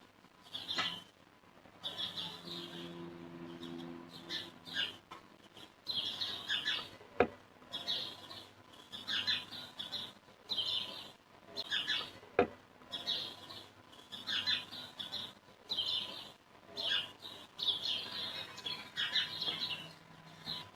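Birds chirping repeatedly in short bursts, with two sharp knocks, one about seven seconds in and another about twelve seconds in.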